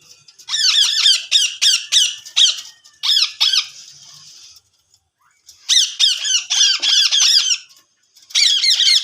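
Indian ringneck parakeet squawking: four bouts of rapid, shrill calls, each call a quick downward glide in pitch, several a second, with short pauses between bouts.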